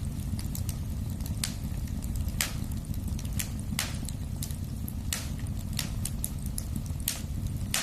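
Wood fire burning in a fireplace: a steady low rumble of flames with irregular sharp crackles and pops, several louder snaps among them.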